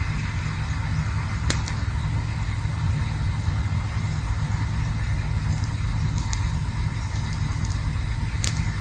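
Campfire burning: a steady low rumble with occasional sharp crackles and pops, the clearest about a second and a half in and another near the end.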